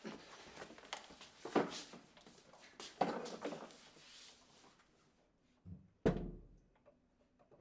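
Knocks and scuffing movement in a small room, with a sharp heavy thump about six seconds in.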